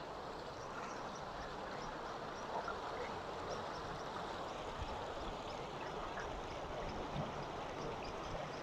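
Steady outdoor background noise with faint, quick high chirps repeating through it.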